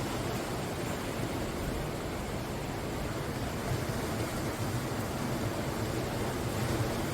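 Ocean surf washing on the shore: a steady, continuous rushing noise with no single wave standing out.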